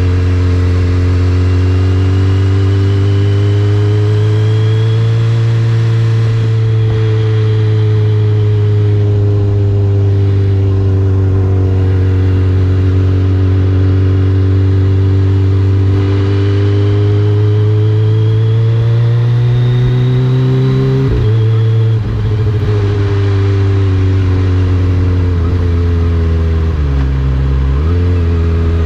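Kawasaki ZX-25R's 250 cc inline-four engine through an Akrapovič racing exhaust, running at a fairly steady speed with gentle rises and falls in pitch. Twice, about two-thirds of the way in and again near the end, the note briefly drops and comes back up.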